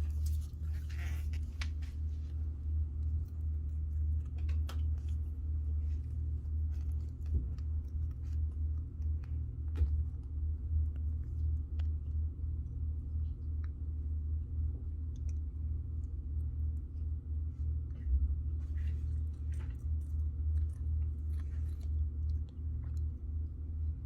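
Hamster chewing bell pepper: small, irregular crunching clicks. Under it runs a steady low hum.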